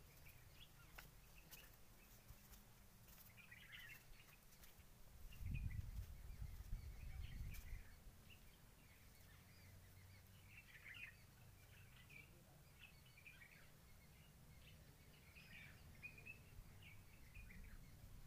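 Faint bird chirps scattered over low background noise, with a brief low rumble a few seconds in.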